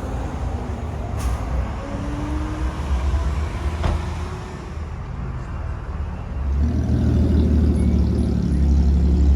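Car engine running with a low rumble, which gets louder about six and a half seconds in.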